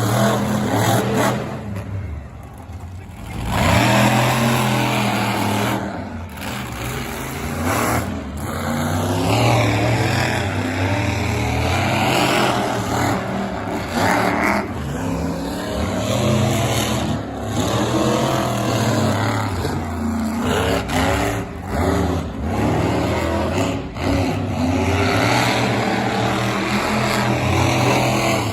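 Monster truck engines revving hard and falling back, in a string of short clips cut abruptly one after another.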